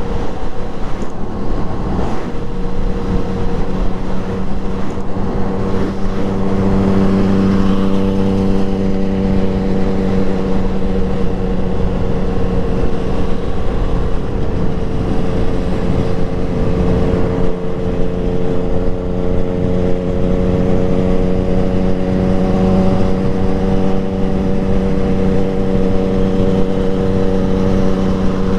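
Motorcycle engine running steadily while riding, heard from on board the bike, its note holding nearly constant with only slight rises and falls in pitch.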